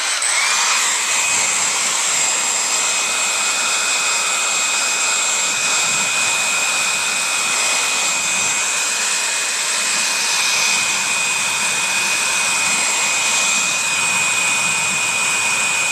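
Hair dryer blowing hot air to shrink plastic window-insulation film tight onto double-stick tape. Its motor spins up about half a second in, then runs steadily with a high whine over the rush of air.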